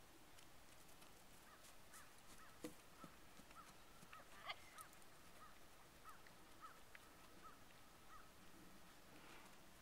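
Near silence with a faint bird calling in a steady series of short, even notes, about two a second, plus a couple of soft knocks.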